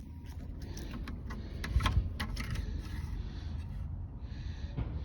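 Lawn Boy 20-inch self-propelled mower being pull-started: the engine turns over with irregular clicks and a brief rumble about two seconds in, but it does not catch. Trying to start but won't, the sign of a fuel or carburettor problem; the owner goes on to clean the carb.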